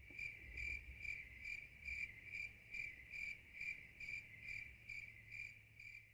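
A cricket chirping steadily, about two chirps a second, over a faint low hum; it starts and stops abruptly.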